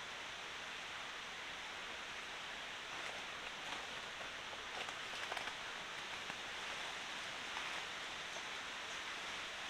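Steady wash of water noise. A few faint light clicks come between about three and five and a half seconds in.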